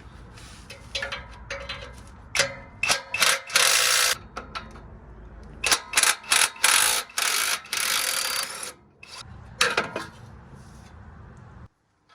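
Power wrench run in a series of short and longer bursts, undoing the bolts of a Honda Civic's exhaust downpipe.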